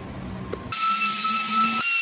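Electric carving power tool running with a low hum, then, after an abrupt cut about two-thirds of a second in, a steady high-pitched whine.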